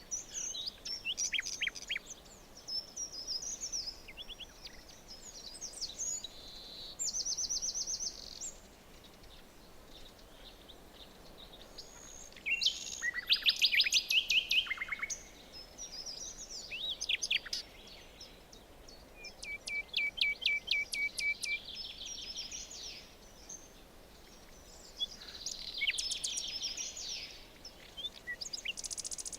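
Several songbirds singing and calling in a forest, with overlapping phrases of quick trills and repeated chirps over a faint steady background hiss. The loudest burst of song comes about halfway through.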